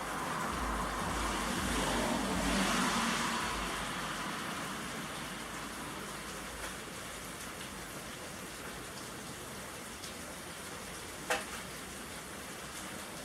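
Steady rain falling and pattering on surfaces. A louder rushing swell rises and fades over the first few seconds, and there is one sharp click near the end.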